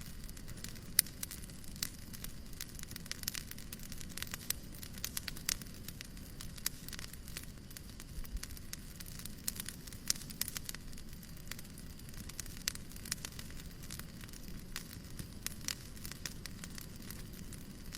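Fireplace crackling with irregular sharp pops over a steady low hiss of white noise, one pop louder than the rest about a second in.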